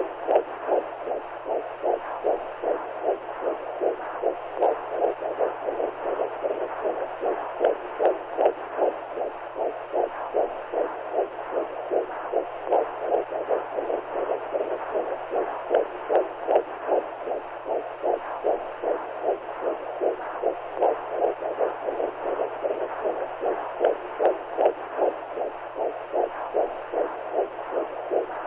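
Womb sound: a fast, even, whooshing pulse like a heartbeat and blood flow heard through the belly, over a faint steady hum.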